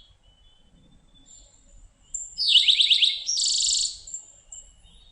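Eastern towhee singing its 'drink-your-tea' song, about halfway through: a quick run of falling notes followed by a higher, faster trill.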